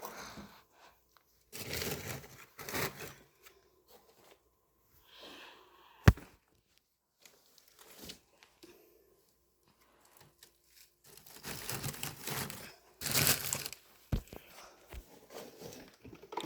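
Crumpling and rustling as fire-lighting material is handled at a fireplace. It comes in irregular spells with quiet pauses between them, and there is one sharp knock about six seconds in.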